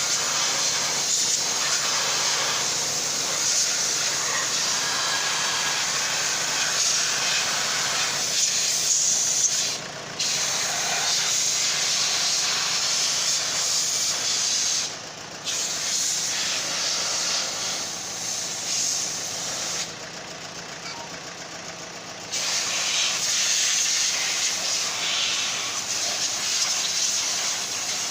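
A loud, steady hissing spray of a pressurised jet over a faint low hum. It cuts out briefly twice, then drops away for about two seconds before starting again.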